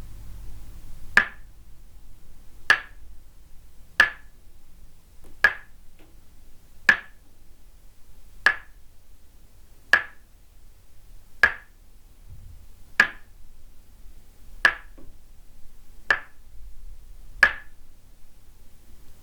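Tok sen massage: a wooden mallet tapping a wooden stake held against the body, twelve sharp, hollow wooden knocks in a slow, even rhythm about one and a half seconds apart, each ringing briefly.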